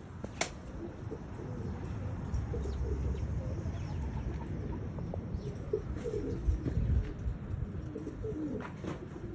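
Tippler pigeons cooing over a steady low rumble, with a sharp click about half a second in.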